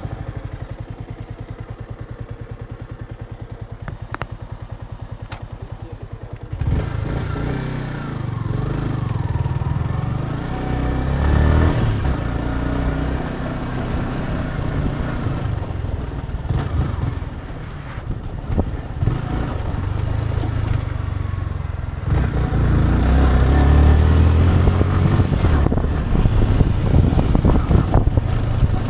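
Motorcycle engine idling with an even beat, then about six seconds in pulling away and running louder, the revs rising and falling as it picks up speed. The engine eases off briefly around two-thirds of the way through before pulling hard again.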